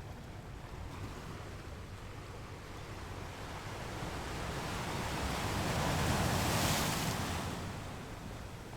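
Ocean waves on a beach: one wave swells, peaks about six to seven seconds in, then falls away.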